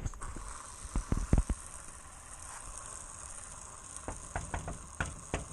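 Steady hiss of light rain, with a few sharp clicks and knocks about a second in and several more near the end.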